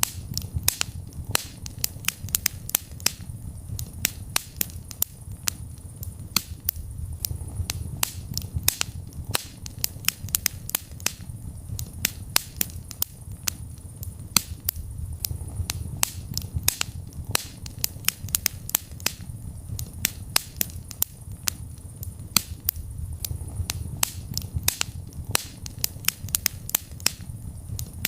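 Wood fire crackling in a fireplace: many sharp, irregular pops and snaps, several a second, over a low steady rumble of the flames.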